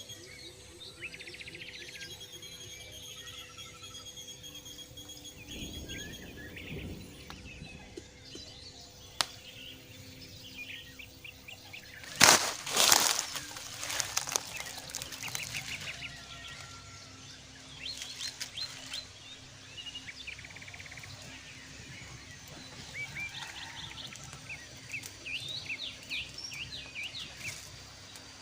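Wild birds chirping and calling repeatedly in short, high notes, with a single loud, brief rustle about twelve seconds in.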